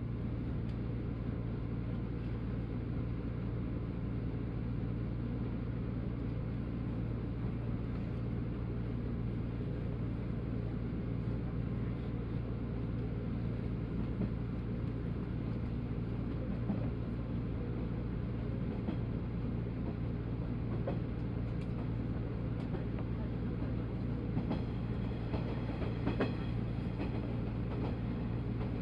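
JR East 185 series electric train running at speed, heard from inside a passenger car: a steady rumble and hum, with a few clicks of the wheels over rail joints near the end.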